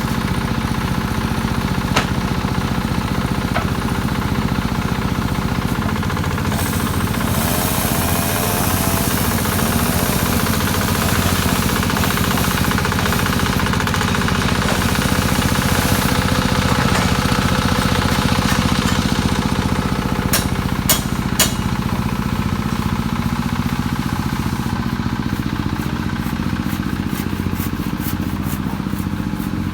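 An engine running steadily at an even speed, with a few sharp clicks about two-thirds of the way in.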